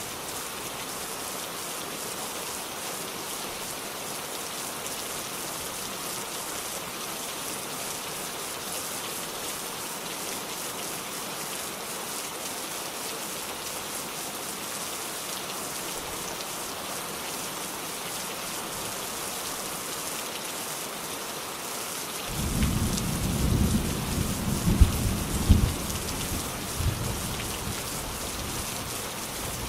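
Steady rain falling, with a roll of thunder that starts low about three-quarters of the way through and peaks in a few sharp cracks before rumbling away.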